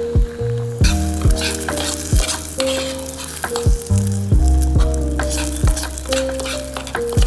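Food sizzling as it fries, a crackling hiss that starts about a second in. Under it plays background music with held keyboard notes and a soft, regular drum beat.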